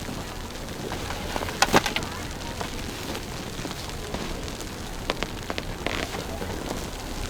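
Steady outdoor noise in deep snow with a few short crunching crackles, the loudest cluster about one and a half seconds in.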